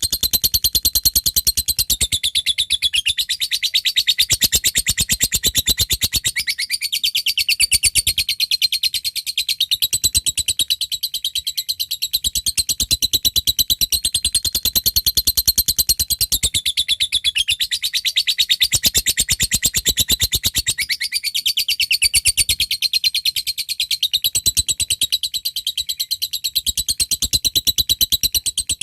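Lovebird giving a long, rapid chattering call (the 'ngekek panjang' prized in contest lovebirds): a fast, unbroken string of sharp, high, clicking notes.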